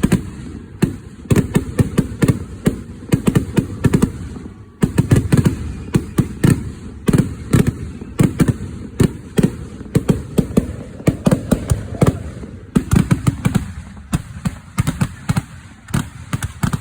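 Kerala temple-festival fireworks (vedikettu) going off in a dense barrage: sharp bangs and cracks, several a second and overlapping, over a low rumble. The din drops and then jumps back up abruptly about five seconds in and again near thirteen seconds.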